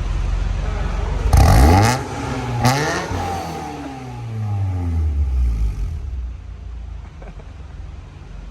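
Honda Prelude four-cylinder engine running through a newly fitted aftermarket exhaust, idling and then blipped twice: a sharp rev about a second in and a shorter one just under three seconds in. The revs then fall back slowly to idle.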